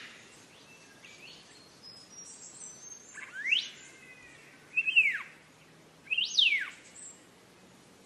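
Black-faced monarch singing: three loud slurred whistles about a second and a half apart. The first rises, the second falls, and the third rises then falls. Faint high chirps from other birds come in between.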